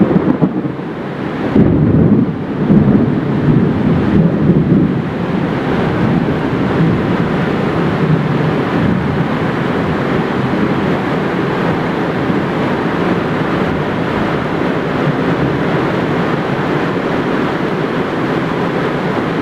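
Heavy rain pouring down in a steady, loud hiss. From about two seconds in to about five seconds in, a loud low rumble of thunder sounds over it.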